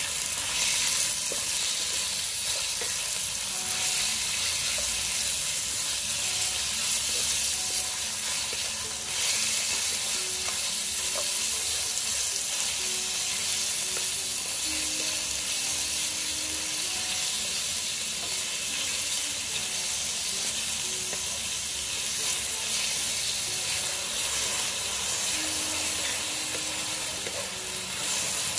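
Thin slices of beef with onion and garlic sizzling steadily in hot oil in a wok, stirred and turned with a wooden spatula.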